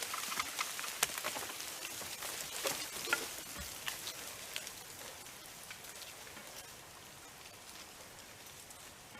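Debris of a just-felled elm settling after its crash: twigs and branches snapping and dropping, a scatter of sharp cracks over a hiss of falling leaves and bits, thinning out and fading away.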